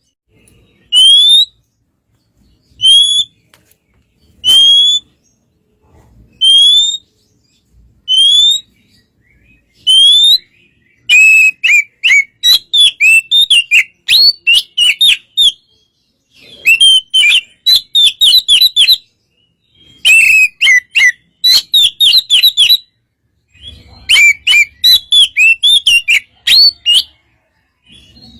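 Oriental magpie-robin (kacer) singing in a relaxed way. First comes a series of single rising whistles, about one every two seconds. About eleven seconds in, the song turns into fast bouts of quick rising and falling whistled notes with short gaps between them.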